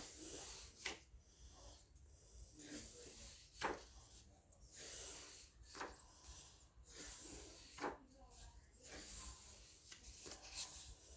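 Paper pages of a colouring book being turned and handled: a soft rustle every second or two, with a few sharper flicks of paper.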